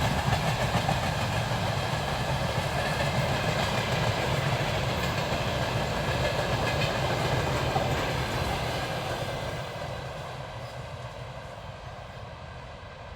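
Freight train wagons rolling past on the rails, a steady rumble with some clickety-clack that fades from about nine seconds in.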